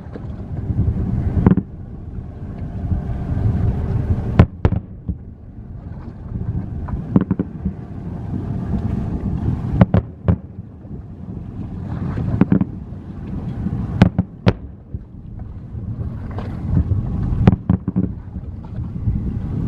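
Aerial fireworks bursting: sharp bangs at irregular intervals, a dozen or so, over a continuous low rumble of further shells going off.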